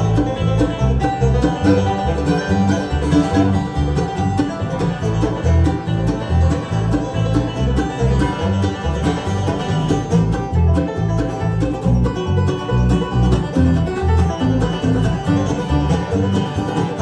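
Bluegrass band playing live, banjo picking over guitar with a steady pulse of low bass notes; an instrumental passage with no singing.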